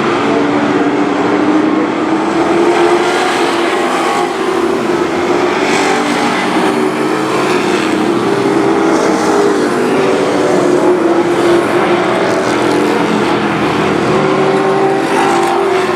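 Several race truck engines running hard together on a short oval, their pitches rising and falling as they accelerate and lift through the laps.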